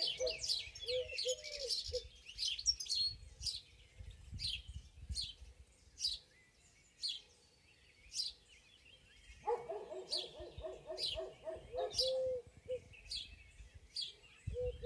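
Wild birds singing: one bird repeats a sharp, high, falling chirp about once a second. A lower warbling call joins at the start and again for a few seconds past the halfway point.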